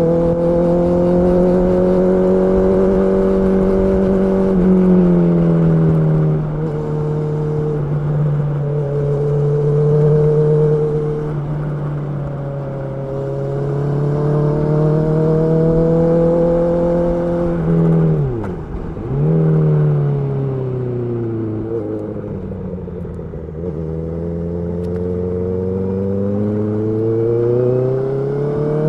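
Honda CB650R's inline-four engine running under way, its pitch holding steady, then falling and climbing with the throttle. About 18 seconds in the revs dip sharply and come straight back up, and in the last several seconds they sink and then rise again.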